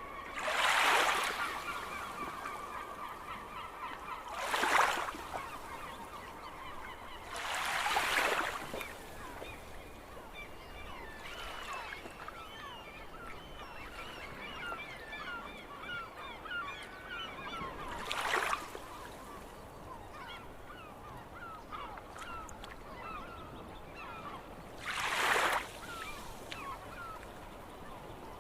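A flock of seagulls calling, many short overlapping calls. Five brief loud whooshes of rushing noise break in at intervals over a steady background hiss.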